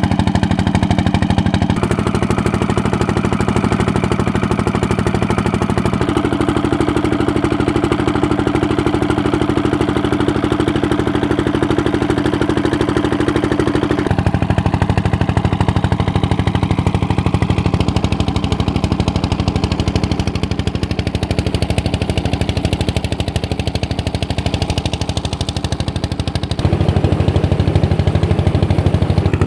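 Old stationary engine running steadily, driving a tubewell water pump, with an even rapid beat of firing strokes. Its pitch and tone shift abruptly several times.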